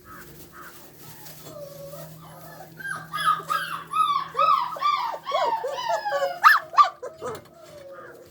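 Puppies whimpering and whining: soft whimpers at first, then a loud run of high, arching whines, about three a second, that stops about a second before the end.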